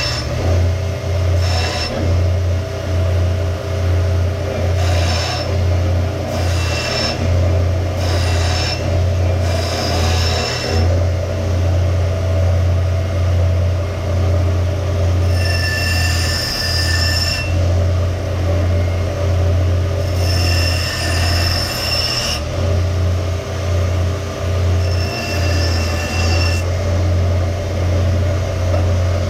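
Electric grinder running steadily while the steel of an axe head is pressed against it to reshape it, the metal giving off repeated high squeals each time it bears on the abrasive.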